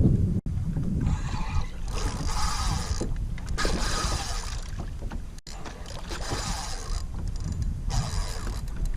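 A kayak on the water: water splashing and sloshing in repeated bursts over a steady low wind rumble on the microphone.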